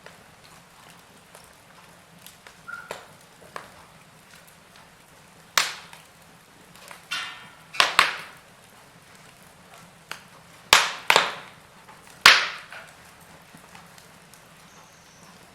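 Burning logs in a fireplace crackling: sharp pops and snaps at irregular intervals over a faint steady hiss, the loudest pops clustered in the second half.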